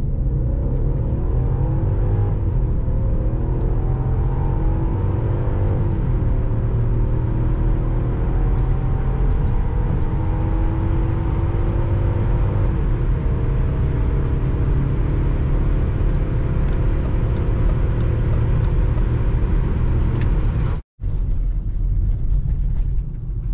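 BMW X5 E53 4.4i's V8 accelerating hard on the highway, its pitch climbing through the gears and falling back at each automatic upshift, about 6 and 13 seconds in. The sound cuts out for a moment near the end.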